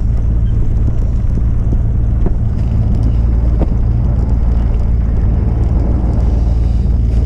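Truck engine running steadily with a low, even rumble, a few faint clicks over it.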